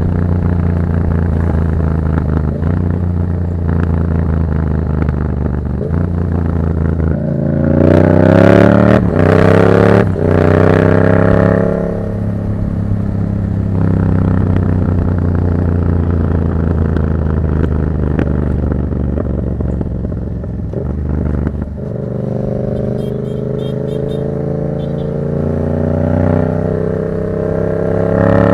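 Yamaha MT-07's parallel-twin engine through an aftermarket Black Widow exhaust, under way. It runs steadily, revs up hard about eight seconds in, climbs again and drops off around twelve seconds, settles into a steady cruise, then accelerates again near the end.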